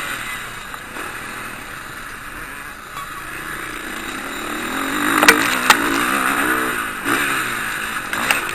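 Motocross motorcycle engines revving, the pitch rising and falling as the throttle opens and closes, with one bike growing louder in the middle as it goes past. Two sharp clicks a little after five seconds.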